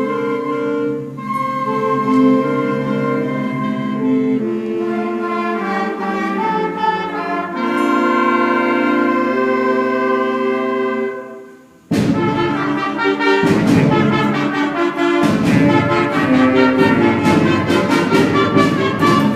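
High school concert band playing: held wind and brass chords for about eleven seconds, a short drop in level, then a sudden loud full-band entry with sharp percussive strikes about twelve seconds in.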